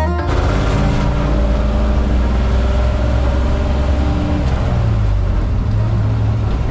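1968 GMC Suburban's LS-swapped V8 running steadily through its new Black Widow exhaust while driving, with engine note and road noise.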